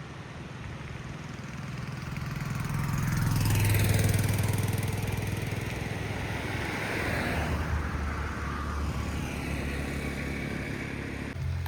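Vehicles passing: a noisy rush over a low hum swells to a peak about four seconds in, then swells again more weakly.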